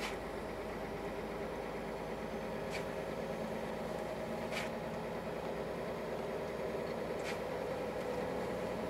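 Scania truck's diesel engine running steadily, heard from inside the cab as the empty truck pulls up an icy grade. A faint click sounds every two seconds or so.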